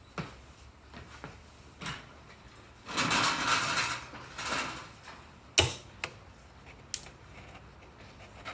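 Tools and parts handled on a workbench: scattered clicks and knocks, a scraping rattle lasting about a second starting about three seconds in, and one sharp metallic knock a little past the middle, the loudest.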